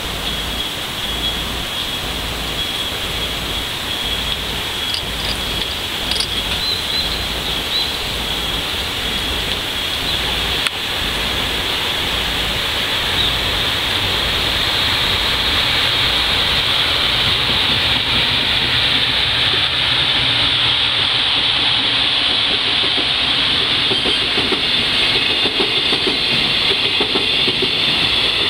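Freight train hauling container wagons approaching and passing: a steady hiss at first, growing louder from about halfway as the train nears, with the rolling noise of the wagons going by near the end.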